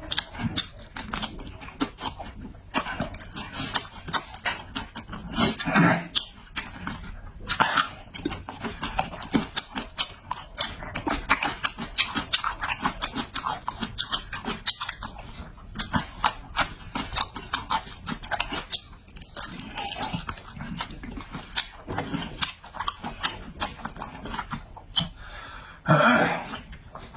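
Close-miked chewing and mouth smacking of a person eating, a steady run of short sharp smacks and clicks, louder for a moment about six seconds in and again near the end.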